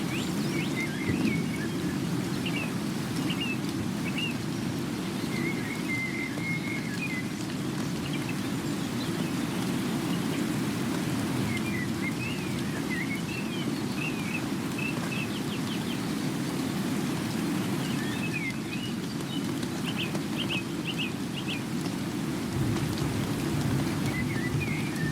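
Steady rain falling as an even low rushing, with small birds chirping and giving quick whistled notes at intervals over it.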